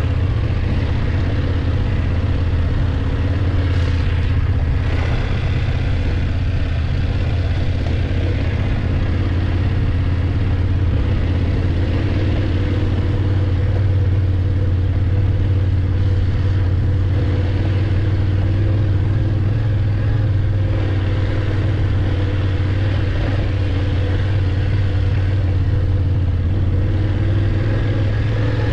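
BMW F850GS motorcycle's parallel-twin engine running steadily while riding.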